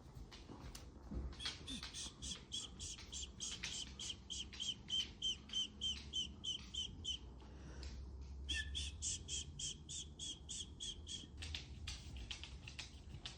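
A bird calling a quick run of repeated short, high notes, two long series with a brief pause between them.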